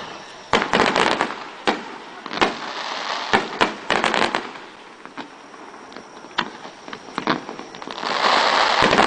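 Aerial fireworks bursting in a rapid, irregular series of sharp bangs mixed with crackling. Near the end a dense volley of crackling starts and continues.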